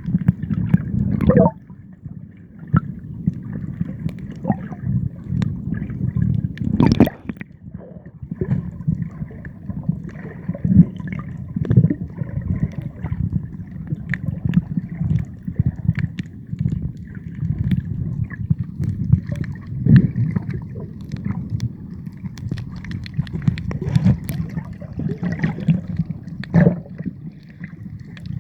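Water gurgling and sloshing, with many irregular clicks and pops scattered throughout.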